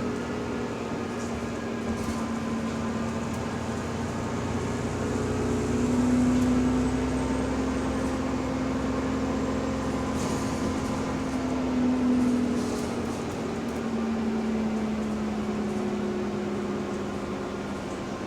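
Bus drivetrain running at speed, heard from inside the cabin, with a humming whine whose pitch rises and falls with road speed. This is the subtle, odd differential noise. A few light rattles are heard through it.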